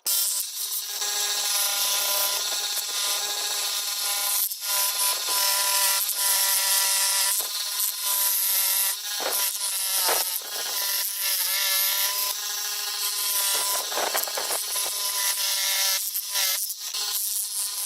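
Power tool working on metal: a steady whine over a harsh scraping hiss, its pitch wavering and shifting a few times as the load changes, with brief breaks.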